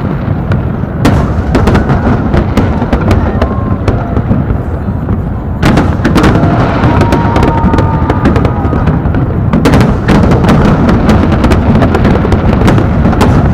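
Large fireworks display with shells bursting continuously: a dense, loud rumble of overlapping booms, with sharp cracks about a second in, near the middle and again near the end.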